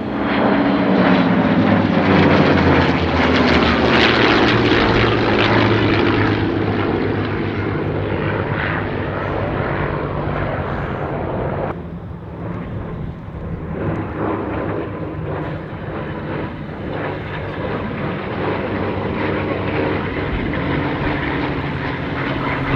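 Piston-engined warbird fighters, a P-47 Thunderbolt and P-51 Mustangs, flying past in formation. The engine note falls in pitch as they pass in the first few seconds, drops off abruptly about twelve seconds in, then carries on as a steadier drone.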